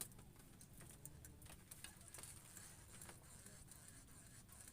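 Near silence, with faint scattered light clicks.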